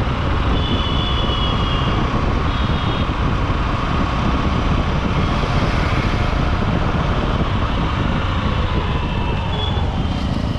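Honda SP125 single-cylinder motorcycle running steadily through city traffic, heard from the rider's helmet, with heavy low rumble from engine, road and wind on the microphone and surrounding traffic noise.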